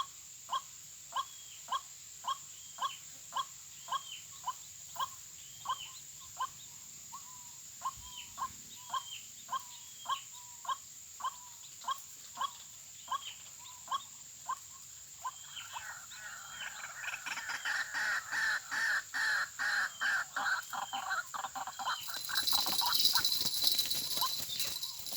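White-breasted waterhen calls: a monotonous note repeated about twice a second. About 15 seconds in, a louder, denser run of calling takes over, and near the end a loud hissing noise covers it.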